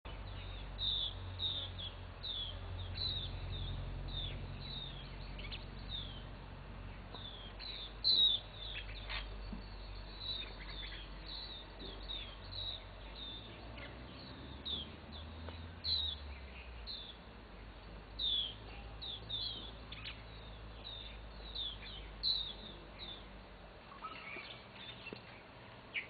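Birds chirping: many short, high chirps, often falling in pitch, coming thick and fast from several birds at once.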